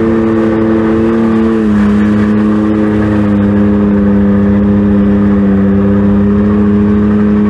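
A motor running at a steady high pitch, its note dipping slightly about 1.7 s in and then holding level.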